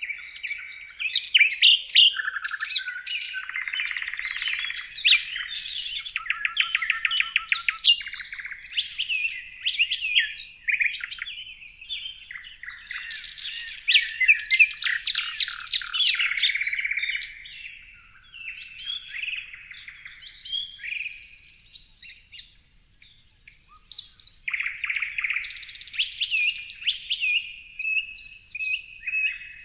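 Several songbirds singing and calling over one another: a busy mix of high whistles, quick trills and rapid chirps, with a run of short repeated notes near the end.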